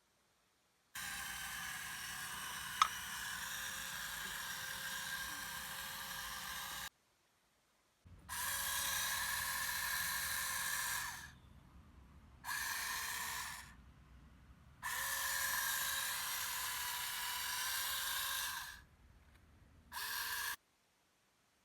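Small electric gear motor of an RC model tractor whining steadily under load while hauling a loaded trolley uphill. It comes in five runs that start and stop abruptly, with one sharp click about three seconds in.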